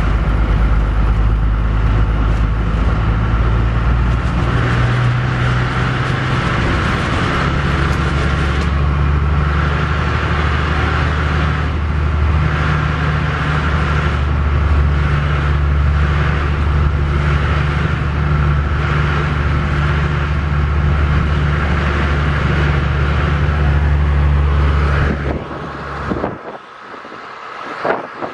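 Vehicle engine running steadily at a constant speed, a low even hum with road noise, heard from inside the cab. Near the end the hum cuts off suddenly, leaving a quieter, uneven road sound.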